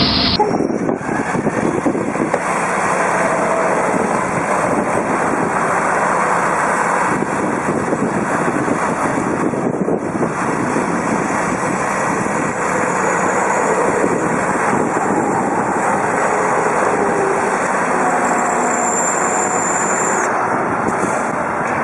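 Heavy vehicle engine running steadily, with a dense noisy texture, after a sudden change just after the start.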